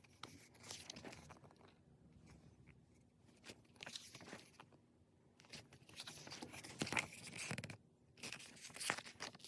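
Faint, irregular rustling and crinkling of paper and plastic as K-pop album packaging and inclusions are handled, with a few sharper handling clicks near the end.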